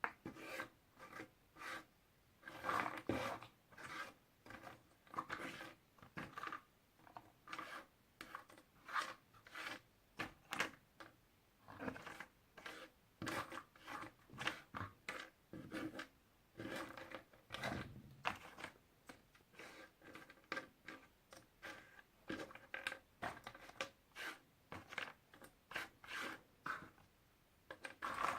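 Puzzle pieces being handled: irregular light clicks, taps and rubbing as the pieces are picked up, slid and fitted together.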